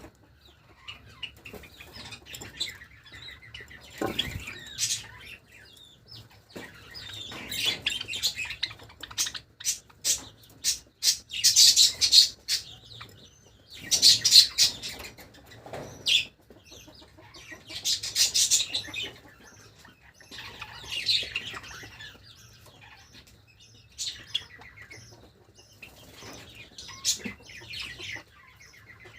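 Java sparrows chirping in repeated bursts of rapid high-pitched notes, with sharp clicks between.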